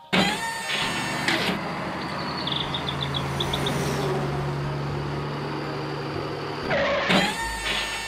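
Truck engine sound effect: it starts abruptly with a sweeping rev, runs steadily with a low hum, and changes pitch again about seven seconds in as the truck pulls up.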